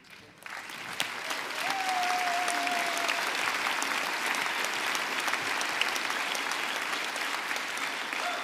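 Audience applauding steadily in a large hall. About two seconds in, one voice rises above it with a long held cheer.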